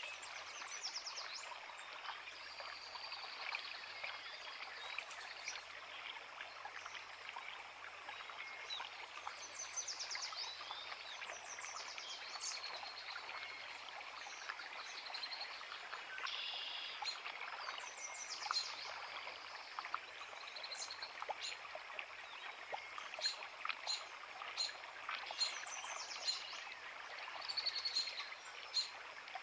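Woodland creek running steadily over rocks, with songbirds singing over it in short, high, quick-trilled phrases that come more often near the end.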